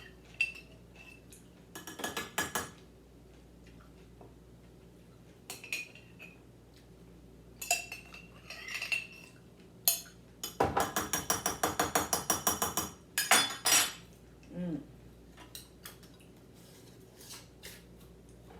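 Glass pickle jars clinking and knocking as pickles are mixed together between them, in scattered sharp knocks, with a run of quick rattling clinks for about two seconds past the middle.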